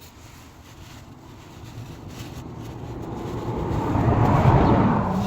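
A car passing by, growing steadily louder for about four seconds and then starting to fade.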